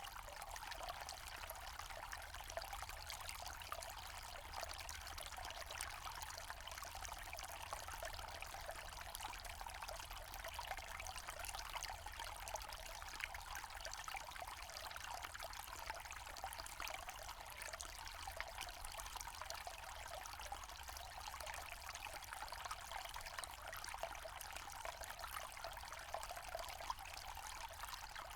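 Forest stream running and trickling steadily, a continuous splashing rush of water with small flickering splashes.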